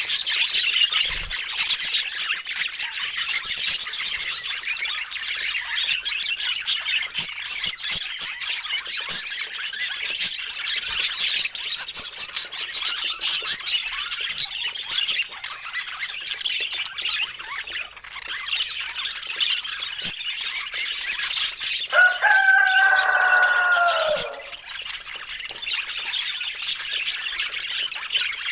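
Budgerigars chattering and warbling, a dense run of rapid high chirps and squawks. About three quarters of the way through, a louder, lower drawn-out call lasts about two seconds, falling slightly at the end.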